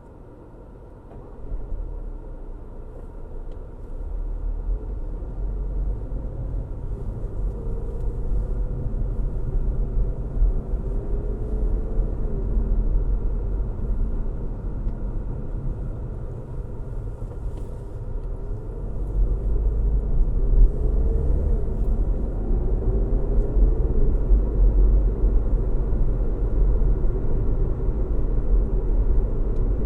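Car driving on a road: a steady low rumble of tyres and engine. It grows louder about two seconds in and again about two-thirds of the way through, with a faint engine tone wavering up and down over it.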